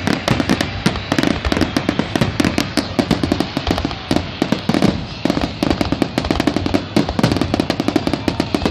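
Fireworks display: aerial shells bursting in a dense, unbroken barrage of bangs and crackles, many a second.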